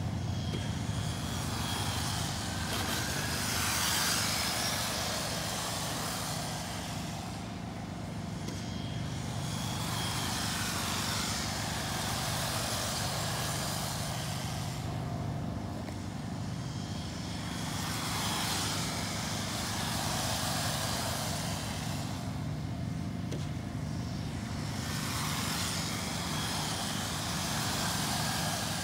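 Electric RC race trucks running laps on a track. Their motor whine and tyre noise swell and fade as the pack passes, about every seven seconds, over a steady low hum.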